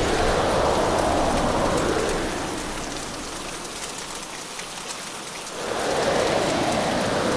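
Hurricane storm: heavy rain pouring down. It eases for about three seconds in the middle, then surges back.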